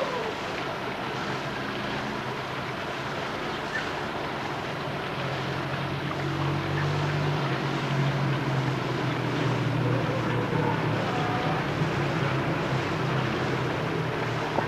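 A motor running with a low, steady hum under a constant rushing noise, getting louder from about halfway through.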